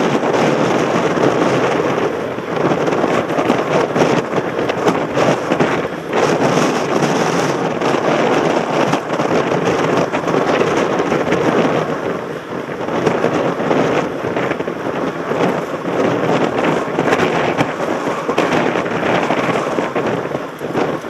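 Mountain bike ride heard from a helmet camera: a dense, steady crackle of tyres and the bike rattling over a rough track, mixed with wind on the microphone.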